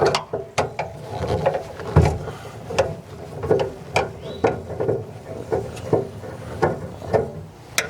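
A hand tool working the broken retaining screw out of a Girard tankless water heater's flow meter: a run of sharp metallic clicks and creaks, about two a second.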